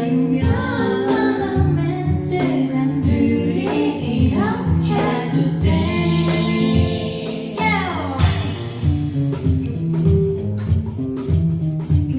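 Live band music, an arranged version of a pop song, with bass, drums and a singing voice.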